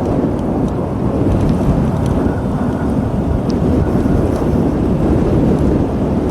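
Strong wind buffeting the microphone in a loud, steady rumble while a motorbike is ridden along a forest track.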